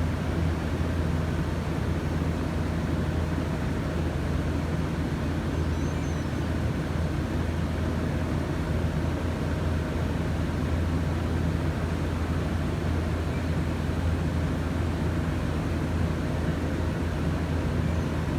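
Lexus LX570's 5.7-litre V8 idling steadily just after being started.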